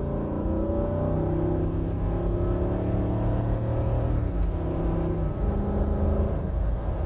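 Tuned 6.2-litre V8 with a Borla exhaust and K&N intake pulling under moderate throttle, heard from inside the cabin as a low, steady exhaust rumble whose note shifts in pitch a few times.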